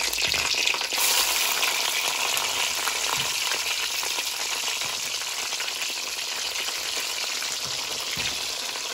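Aubergine wedges frying in hot palm oil: a steady sizzle with fine crackling, a little louder from about a second in.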